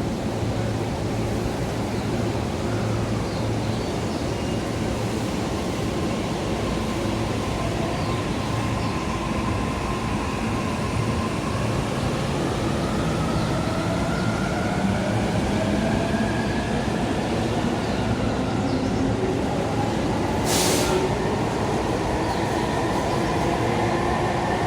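Electric commuter train pulling out of the platform and accelerating: a rumble of wheels on rail, with the motor inverter's whine rising steadily in pitch as it gathers speed. A short burst of hiss cuts in about twenty seconds in.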